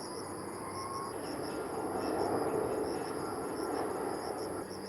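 Distant jet airliner noise, a broad rumble that swells about two seconds in and then eases off, over steady insect chirring with a regular pulsing high note.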